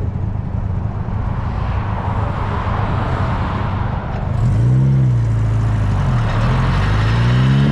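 Small open-top MG Midget sports car driving, with a steady rush of wind and road noise. About four seconds in, its engine note comes up, dips briefly, then climbs steadily as it accelerates.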